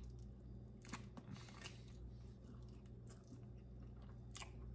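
A man biting into and chewing smoked chicken, faint, with a few brief wet clicks from the mouth over a steady low hum.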